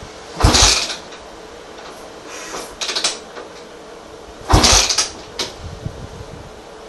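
Honda XR400R's air-cooled four-stroke single-cylinder race engine, fitted with a DG slip-on exhaust, running with two short, sharp throttle blips about four seconds apart.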